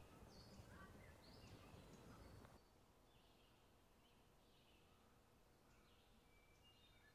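Very faint outdoor ambience with small birds chirping now and then. The low background noise drops suddenly about two and a half seconds in, leaving only the faint bird chirps.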